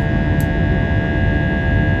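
Jet airliner's turbofan engines running steadily: an even, loud rush of engine noise with a steady high whine over it.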